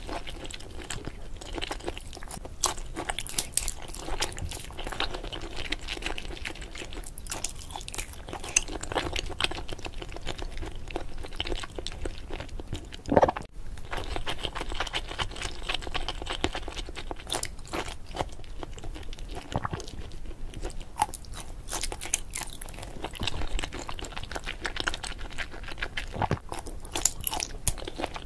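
Close-miked chewing of soy-sauce-marinated shrimp: dense, wet clicking and crackling mouth sounds, with one louder low thump about halfway through.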